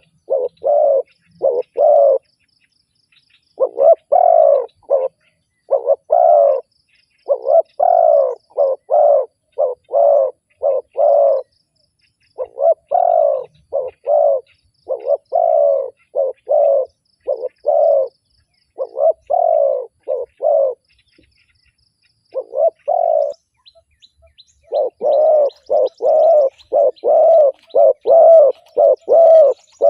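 Spotted doves cooing: groups of several deep coos with short pauses between them, the calls crowding closer together near the end. Faint high chirps of small birds can be heard near the end.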